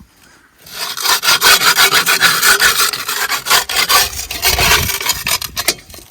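Loud, rough scraping on a hard surface. It starts about a second in and keeps going in many quick, uneven strokes, thinning a little near the end.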